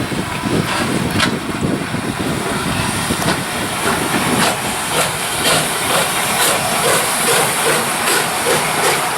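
PKP Ol49 steam locomotive hissing steam, with scattered clicks and, in the second half, a faint regular beat.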